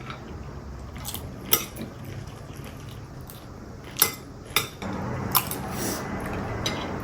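A handful of short, sharp clinks of cutlery against dishes while eating, spaced irregularly through a quiet stretch.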